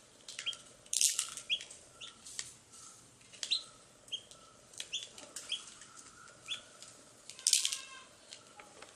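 Baby chicks peeping: many short, high chirps in an irregular scatter, with two louder rustling bursts, about a second in and at around seven and a half seconds.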